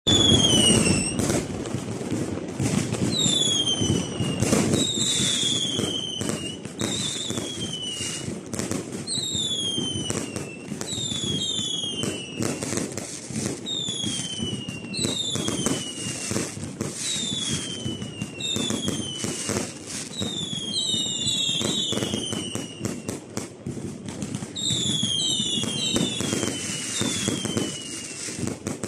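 Fireworks going off continuously: many sharp cracks and bangs over a rumble, with whistling shells whose pitch falls, one about every second, several overlapping at times.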